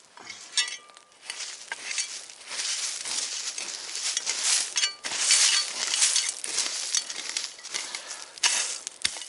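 Earth and stones being scraped and pushed over a campfire's coals to bury the fire: a run of gritty scraping and crunching strokes, with a couple of short clinks.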